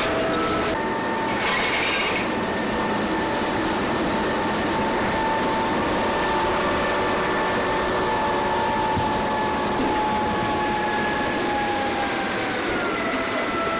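Steady mechanical running noise with a held whine that sags slightly in pitch near the end, and a brief hissy burst about a second and a half in.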